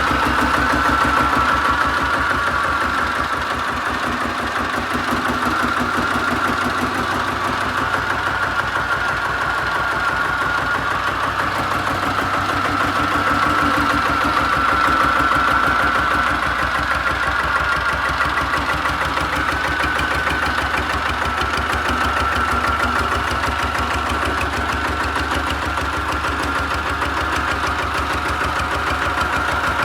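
Goldoni 233 4×4 mini tractor's engine running steadily at idle, with an even rapid pulse and no change in speed.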